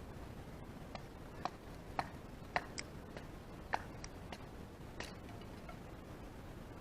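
Scattered sharp ticks and pops, about eight in four seconds, over an even background hiss, as the first fire is being lit.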